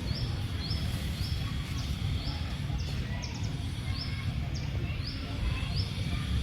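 A bird calling in a series of short, high chirps, about two a second, over a steady low rumble.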